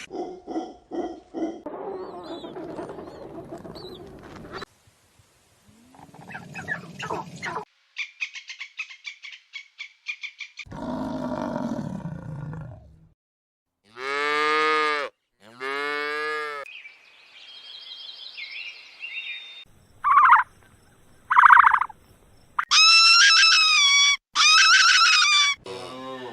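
A string of different animal calls, cut one after another with short gaps between them. They include two long drawn-out calls in the middle and two high-pitched calls near the end.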